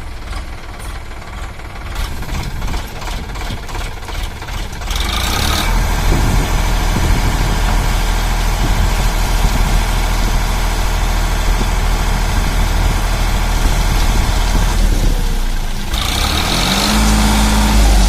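Sonalika DI 47 RX tractor's diesel engine running, with a regular pulsing beat at first, then growing louder and fuller about five seconds in. A steady tone joins briefly near the end.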